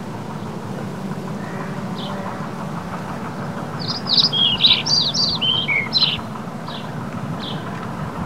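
Small songbird singing: a quick run of chirping, falling notes about four seconds in for a couple of seconds, with a few single notes before and after. Under it runs a steady low background rumble.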